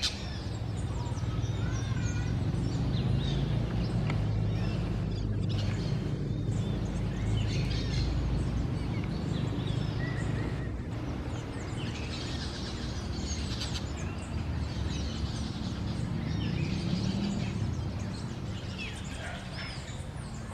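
Wild birds chirping and twittering, with many short, quick, high notes scattered throughout, over a steady low rumble.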